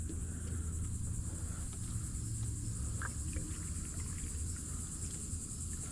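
Steady high-pitched buzz of insects, over a low rumble, with a faint tap about three seconds in.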